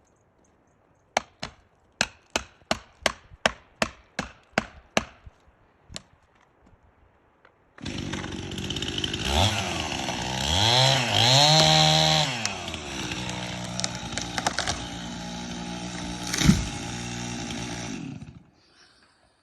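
A quick run of about a dozen sharp knocks, then a chainsaw starts up suddenly and cuts into a standing beetle-kill conifer. Its engine revs up and down under load, a single sharp crack sounds near the end, and the saw cuts off.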